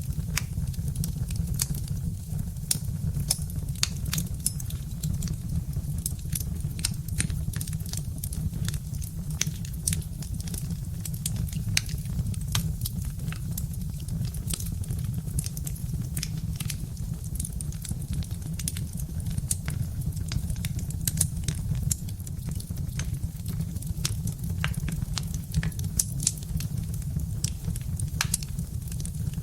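Birch-log wood fire crackling: many small sharp pops and snaps at irregular intervals over a steady low rumble.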